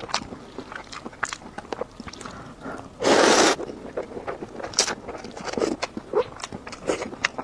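Someone eating instant noodles with scattered short clicks and smacks of chewing and utensils. One loud half-second slurp of noodles comes about three seconds in.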